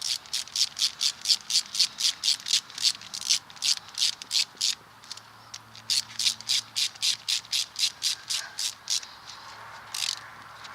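Hand ratchet wrench clicking as bolts on the drive shaft's U-joint cap brackets are run in. It goes at about five clicks a second in two runs with a short pause between them, and one more click near the end.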